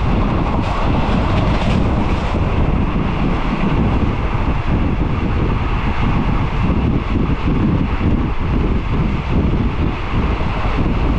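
Moving passenger train running along the track, heard from an open carriage window: a steady low rumble with wind buffeting the microphone.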